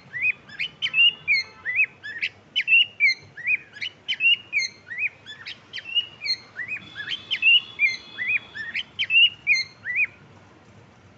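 Cockatiel chirping in quick repeated calls, about two a second, with arched notes mixed with short higher peeps. The calls stop about ten seconds in.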